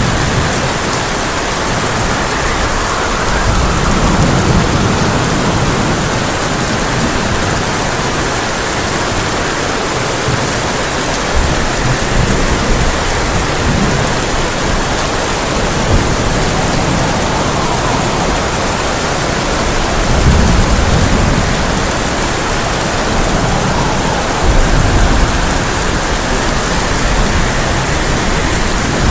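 Heavy rain falling steadily on a tin roof, with low thunder rumbling in several times.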